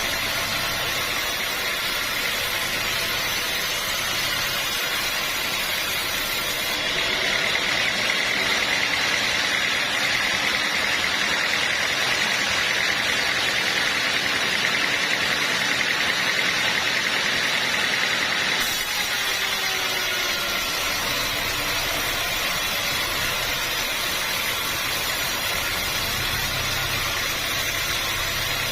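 Sawmill machinery running steadily. From about seven seconds in to about nineteen seconds, a higher hiss comes up. It starts and stops abruptly.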